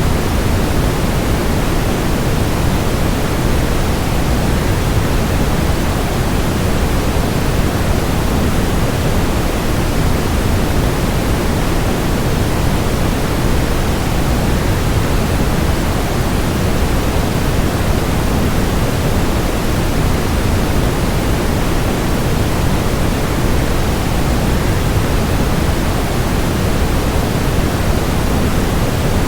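Steady, unbroken rushing of a waterfall, an even noise with most of its weight in the low end and no change in level.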